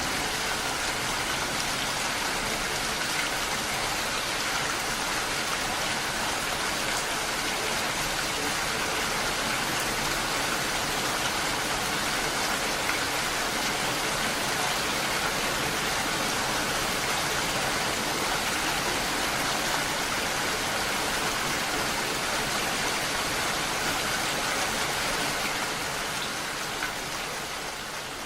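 Steady rain falling, an even hiss of drops that begins to fade out near the end.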